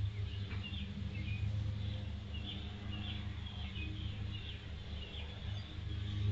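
Small birds chirping and trilling in the trees, many short calls, over a steady low hum.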